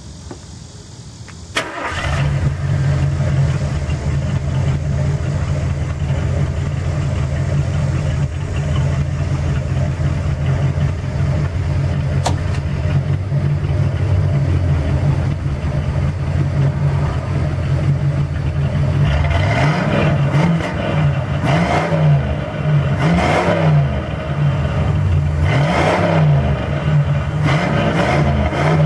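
Ford 460 cubic-inch (7.5 L) big-block V8 of a 1978 Lincoln Mark V, breathing through Thrush Turbo mufflers, starts about a second and a half in and settles into a steady idle. In the last third it is blipped through a series of short revs, each rising and falling back to idle.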